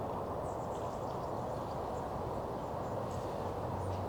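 Outdoor background ambience: a steady rushing noise with scattered faint, high bird chirps. A low steady hum comes in near the end.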